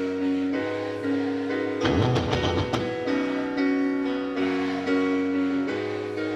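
Rock band playing an instrumental passage: sustained electric guitar chords changing every second or so, with a short clattering run of rapid hits about two seconds in.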